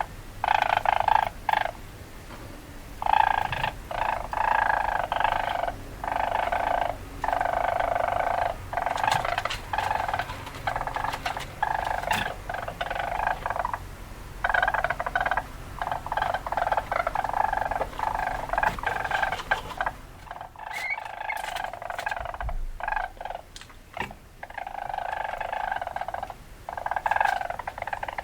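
Weasel calls: repeated runs of rapid pulsing calls, each lasting about a second or two, with short gaps between them.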